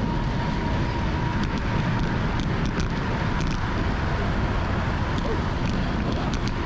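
Steady rumble of wind and road noise on the microphone of a moving bicycle, with a few faint ticks.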